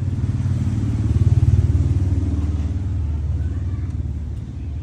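A motor vehicle engine running, loudest about a second and a half in and then slowly fading, as if passing by.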